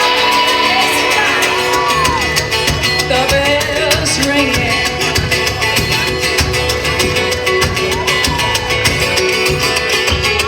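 Live band music at a concert, with a fast, driving rhythm and a voice singing gliding notes without words.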